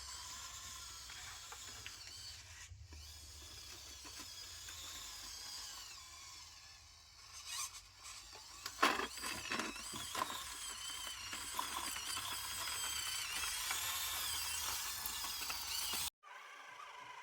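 Small electric motor and gearbox whining, its pitch wavering as the speed changes, with a few sharp clicks or knocks around the middle. The sound cuts off abruptly shortly before the end.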